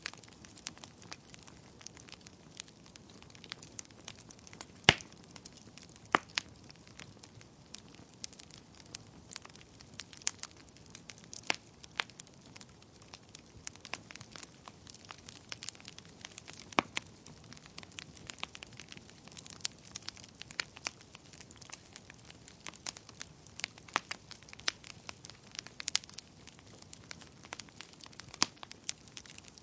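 Wood fire crackling in a fireplace: a steady low hiss under frequent sharp pops and snaps, with a few louder pops standing out, the loudest about five seconds in.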